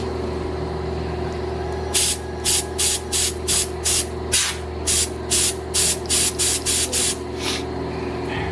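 Compressed-air blow gun fired in about fifteen short blasts of hiss, two or three a second, starting about two seconds in, as air is blown through a part to clear it. A steady hum runs underneath.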